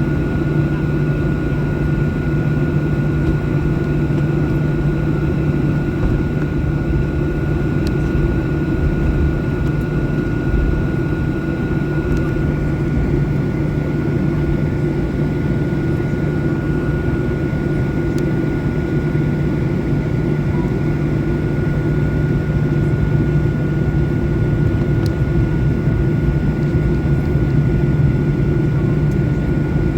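Steady cabin drone inside a Boeing 737-800 airliner, the noise of its CFM56 jet engines and the airflow, with a low hum and a thin steady whine. The drone holds an even level, and there are a few faint ticks.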